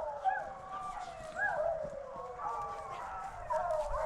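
A pack of beagles baying, several hounds giving tongue at once in overlapping, wavering, drawn-out cries.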